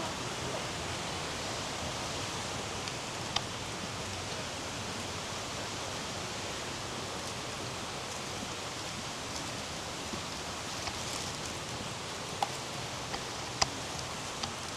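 Steady rushing of flowing water, with a few sharp clicks standing out, the loudest about three and a half and thirteen and a half seconds in.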